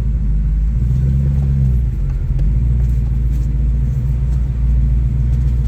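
Off-road rock-crawling vehicle's engine running steadily at low revs, a low rumble.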